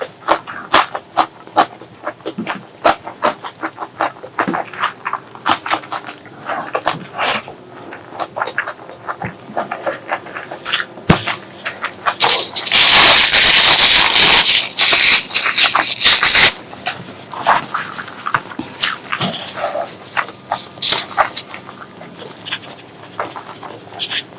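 Close-miked wet chewing and lip-smacking: a dense run of short, sticky mouth clicks. In the middle, a loud rushing noise lasts about four seconds.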